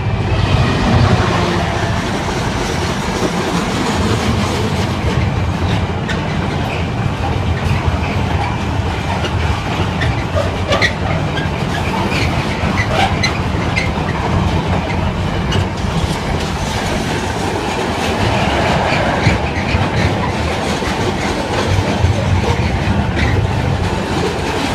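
GB Railfreight Class 66 diesel locomotive passing close by, its EMD two-stroke V12 engine loudest in the first seconds, followed by a long rake of container flat wagons rolling past with a steady wheel rumble and clickety-clack over the rail joints.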